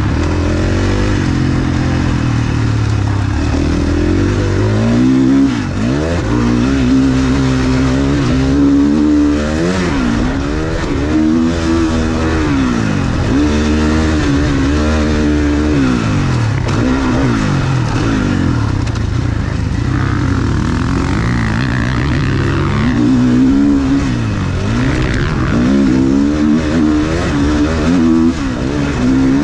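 Motocross bike engine revving hard and dropping off over and over, its pitch climbing and falling every second or two through acceleration, gear changes and backing off for corners.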